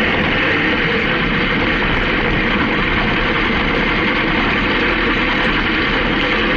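Honda CB750K air-cooled inline-four motorcycle engine running steadily while riding, mixed with constant wind rush.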